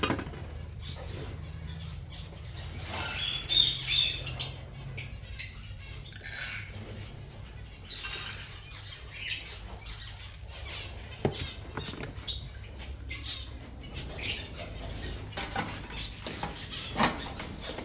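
Small cage birds fluttering their wings in short bursts, with scattered chirps and squawks.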